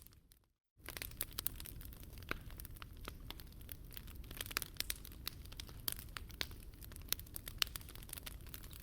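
Wood fire burning in a Picogrill 398 fire stand, crackling steadily with many sharp pops over a low rumble. The sound drops out for about half a second near the start, then the crackling resumes.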